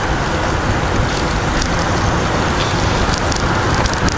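Steady rushing noise of wind buffeting the microphone of a moving bicycle, mixed with the hum of road traffic.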